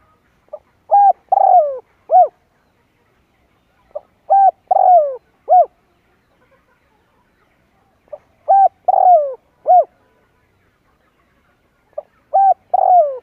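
Spotted dove cooing its song, played as a decoy call to draw wild doves. It repeats a phrase of four to five short coos about every four seconds, each coo a brief swell that falls away in pitch.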